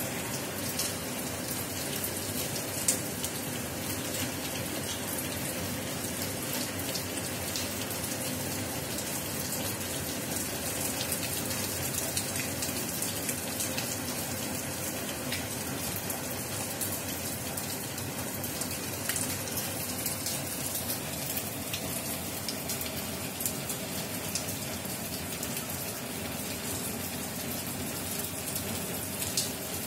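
Heavy rain falling steadily: a dense, even hiss with many sharp drop impacts close by, one louder tick about three seconds in.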